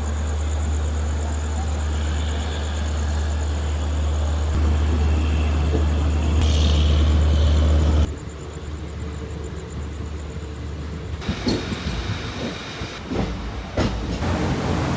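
Express train running on the track, heard from on board: a steady low rumble that cuts off abruptly about eight seconds in, followed by quieter running with a few sharp knocks near the end.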